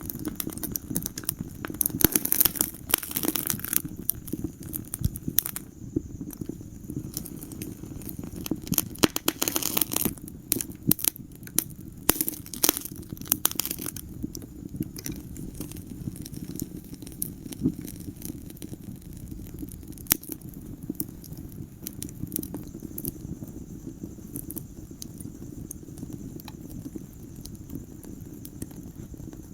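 Wood fire crackling in a fireplace: many sharp pops and snaps over a steady low rumble of burning, busiest in the first half and sparser later on.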